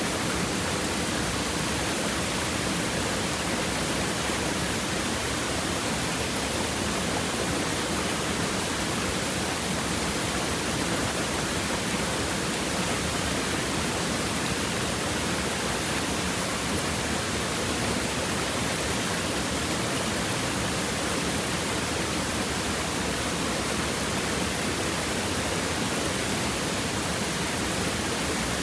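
Stream water running steadily over and between rocks, an even babbling rush.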